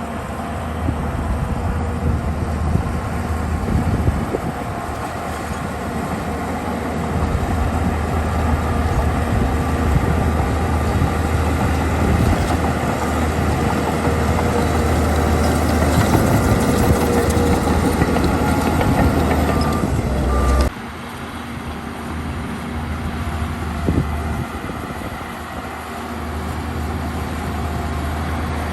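Heavy earthmoving machinery's diesel engines running steadily, a deep low drone with rougher noise above it. About two-thirds of the way through the sound drops suddenly in level.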